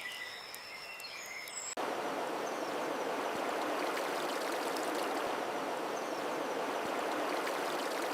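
Stream water running steadily, starting suddenly about two seconds in. Before it come a few faint, high, steady whistling tones.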